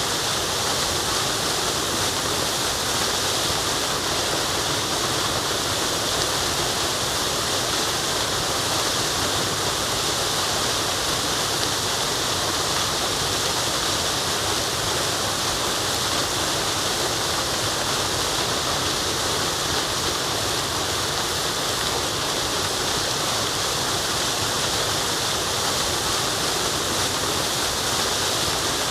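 Waterfall rushing steadily: a dense, even hiss of falling water with no breaks or changes.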